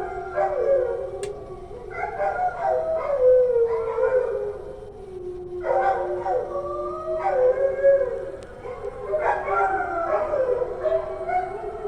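Several dogs howling together in a wolf-like chorus, set off by the dawn call to prayer. New howls keep starting every two seconds or so and slide down in pitch over a long, steady held note.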